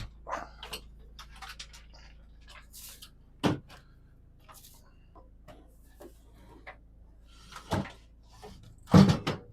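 Scattered clicks, knocks and bumps of a microwave oven being handled and fitted into place in a cabinet, with a few louder thumps, the loudest near the end, over a faint steady low hum.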